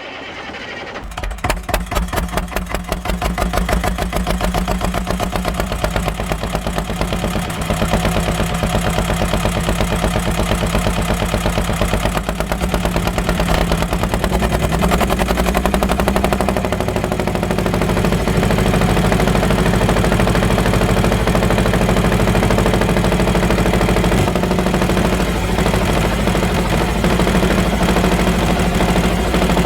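Small engine of a DIY model mini tractor starting up and running with a rapid, even pulse, quickening over the first couple of seconds and then running steadily.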